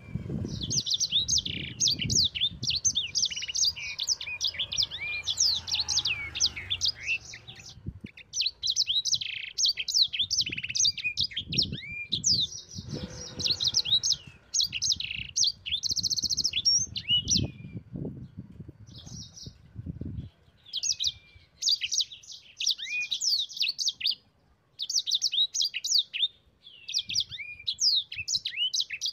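Sanger (yellow-fronted canary) singing a fast, varied song of high chirps, trills and down-slurred whistles in long runs with short pauses. Faint low knocks sit underneath through the first two-thirds.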